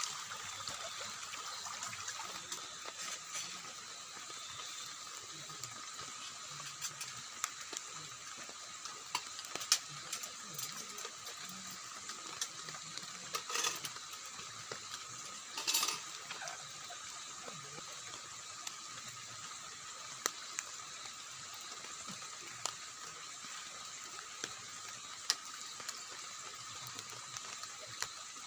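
Running water rushing steadily, with scattered sharp drips tapping throughout and two louder spatters about halfway through.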